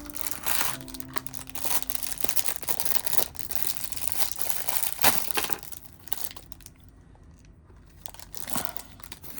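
Crinkling and rustling, dense for about the first six seconds and then dying down, over soft background music.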